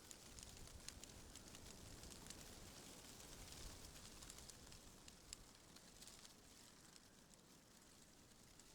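Faint wind rustling through tree leaves: a soft, steady hiss with many tiny crackling ticks of leaves, a little fuller in the first half and easing off toward the end.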